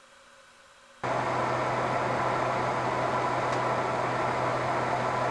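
2014 Sunbeam Blizzard 8-inch desk fan running: a steady rush of air with a steady low motor hum, starting abruptly about a second in.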